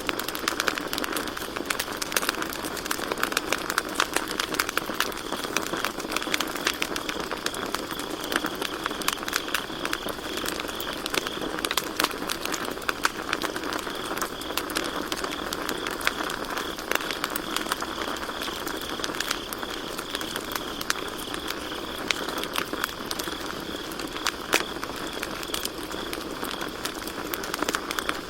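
Campfire crackling with constant small irregular pops and snaps, over a steady high chirring of crickets.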